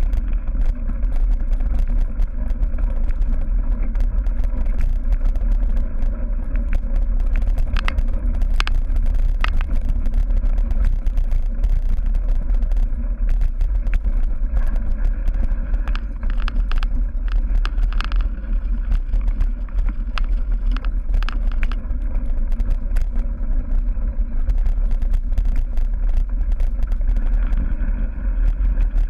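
Steady wind rumble on the microphone of a racing bicycle's onboard camera, over the ride noise of a cyclocross bike on rough dirt and grass, with frequent rattling clicks. The rattles come in denser clusters about eight seconds in and again around sixteen to eighteen seconds.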